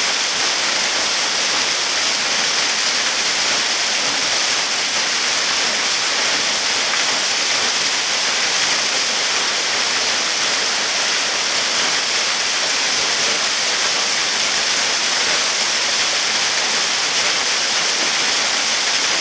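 Small waterfall pouring steadily onto rock and pool, a loud unbroken rushing hiss.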